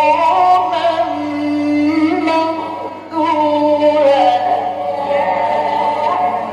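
Male Quran reciter's voice in long, ornamented melodic phrases, held notes wavering and gliding between pitches, with a short breath-pause just before three seconds in.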